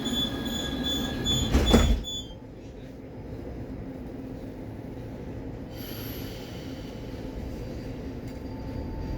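Baltiets metro train running through the tunnel, heard from inside the car: a steady rumble with a high, pulsing squeal for the first two seconds, cut by a single loud bang just under two seconds in. After the bang it settles into a quieter steady run with a faint high whine.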